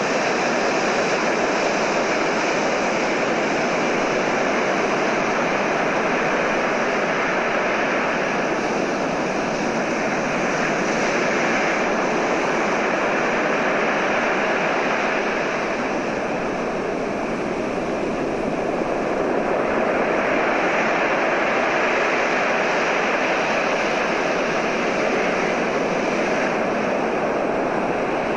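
Recorded ocean surf: a steady, loud wash of breaking waves that eases a little past the middle and swells again.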